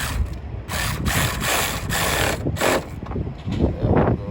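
Hand tools and car parts being handled during reassembly under the hood: a series of short clattering, scraping bursts.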